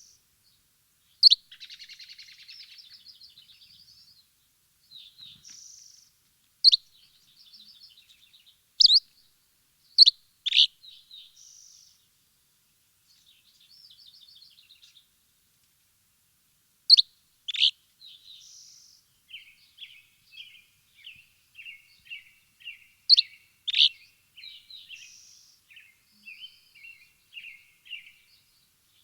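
Songbirds chirping: loud, sharp chirps that sweep down in pitch, about eight in all, between softer high trills and warbles. In the second half they turn into a quicker run of short repeated notes.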